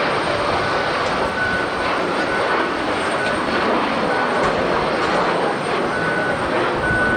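Jet airliner engines running loudly and steadily as an airliner passes close by.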